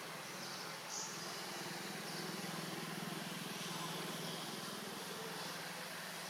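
An engine running steadily nearby: a low, even hum that swells a little in the middle and eases off near the end, over a constant outdoor hiss.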